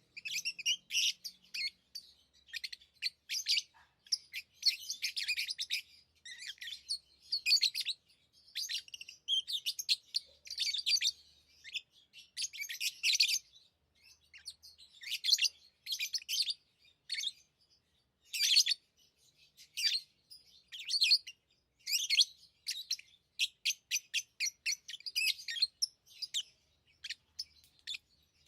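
Pet lovebirds chirping: rapid runs of short, high-pitched chirps in bursts with brief pauses between them.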